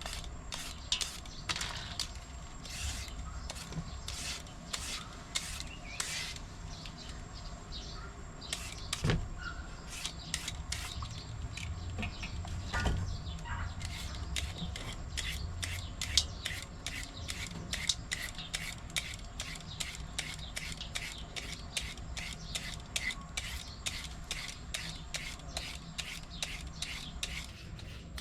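Green papaya being shredded, quick repeated rasping strokes at a few a second.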